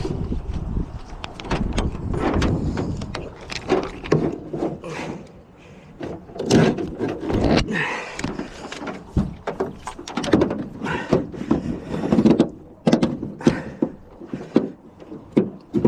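Irregular knocks, thuds and scrapes, many sharp hits in quick succession, easing off about five seconds in before picking up again.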